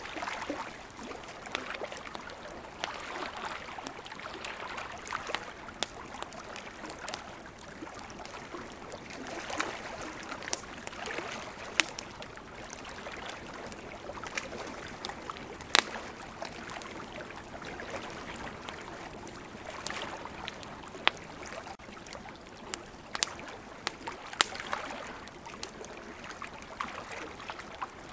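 Wood campfire crackling, with frequent sharp pops, a few of them much louder, over a steady rushing hiss of ocean waves.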